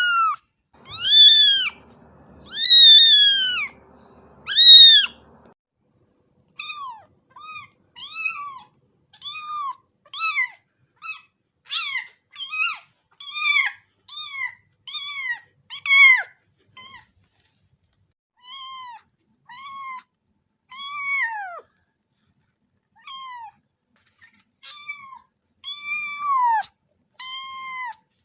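A cat meowing over and over, each meow a short rise-and-fall call. The first few meows are longer and louder, then come many short ones in quick succession, about one every second.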